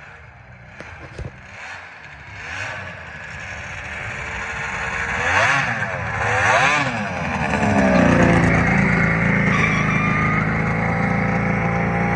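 Arctic Cat Thundercat 900 snowmobile with a big-bore kit, its three-cylinder two-stroke engine growing louder, with two quick revs up and down near the middle, then running steadily and louder for the last four seconds. A few light clicks come about a second in.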